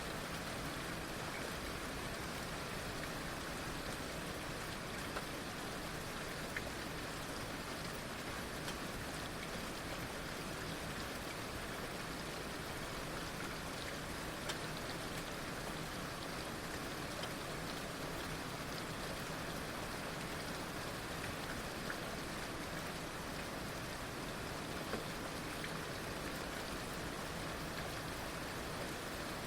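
Heavy rain falling steadily, an even hiss with scattered sharper drop hits on a surface.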